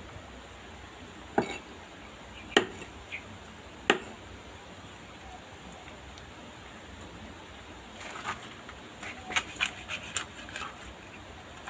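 Three sharp knocks about a second and a quarter apart, like chopping strikes on a board. Near the end comes a quick run of lighter taps and clinks, like kitchenware being handled.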